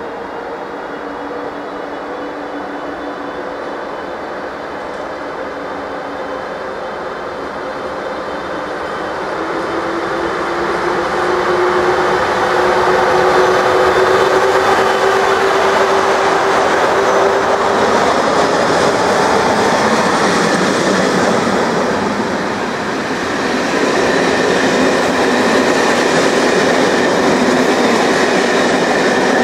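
Passenger train pulling out of the station and picking up speed: a whine that slowly rises in pitch over rolling wheel noise, growing louder about ten seconds in as the train passes close.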